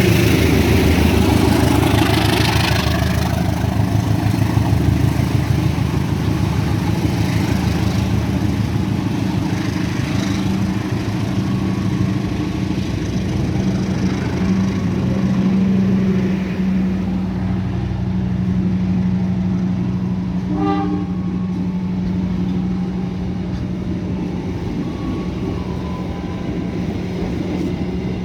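A train running close by with a steady low rumble and hum, and a short horn toot about twenty seconds in.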